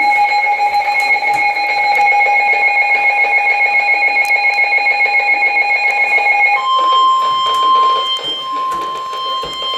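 Emergency broadcast alert tones. A steady two-tone attention signal sounds for about six and a half seconds, then switches abruptly to a single steady tone near 1 kHz, the weather radio warning alarm tone. Together they announce a severe thunderstorm warning.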